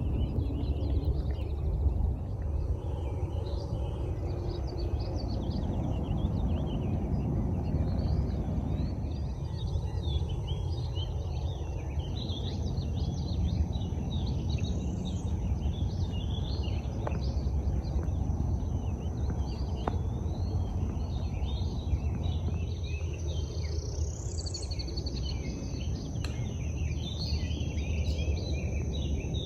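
Lakeside birds chirping and singing over a steady low rumble, with a thin steady high insect drone that grows more noticeable about halfway through.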